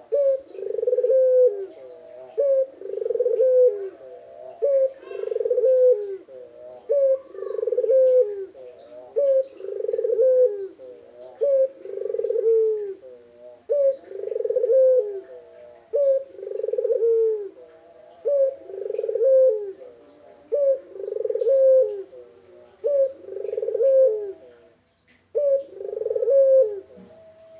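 Puter dove (a domestic collared dove) cooing over and over, one coo about every second and a half, with a brief break near the end. Faint chirps of other small birds sound behind it.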